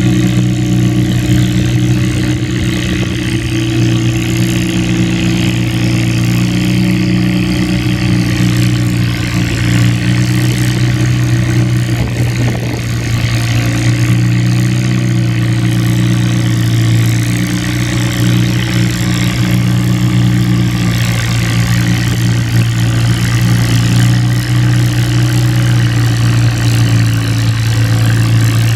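Antique farm tractor engine running loud and steady at a nearly constant speed, with only a brief wobble in pitch partway through.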